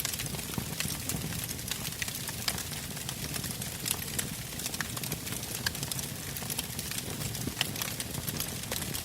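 Log campfire burning, crackling with frequent irregular sharp pops over a steady low rumble of flames.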